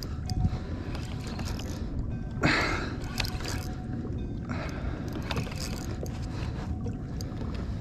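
Water sloshing and splashing against a kayak, in a few noisy surges, over a steady low rumble of wind on the microphone.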